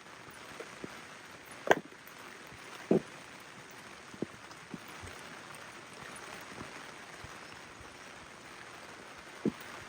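Steady rain falling, with a few loud, irregular taps close by, like heavy drips. The loudest tap comes just under two seconds in, another about a second later, and one near the end.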